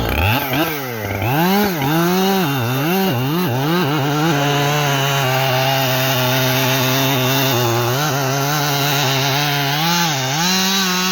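Two-stroke chainsaw engine revved up and down several times, then held at a steady pitch, dipping briefly twice near the end.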